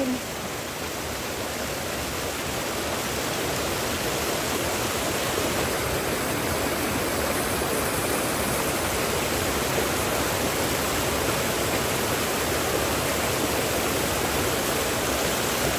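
Hill stream rushing over rocks: a steady wash of water noise that grows a little louder over the first few seconds, then holds even.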